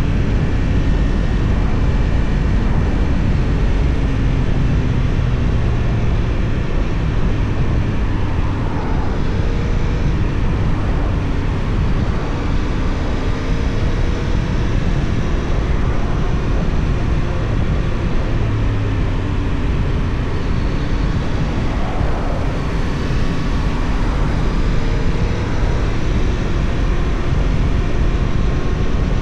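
Benelli Tornado 550's 554 cc parallel-twin engine running while the motorcycle is ridden, its pitch rising and falling a few times, over a steady rushing noise.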